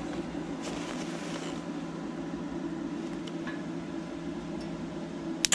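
Inverter stick welder's cooling fan running with a steady hum. Two sharp clicks come near the end.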